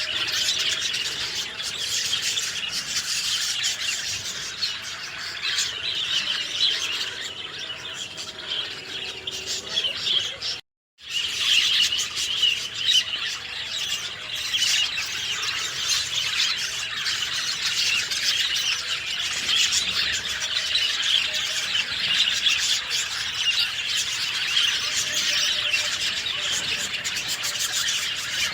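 Many songbirds chirping and singing at once in a dense, unbroken chorus of high calls. The sound cuts out completely for a moment about eleven seconds in, then the chorus resumes.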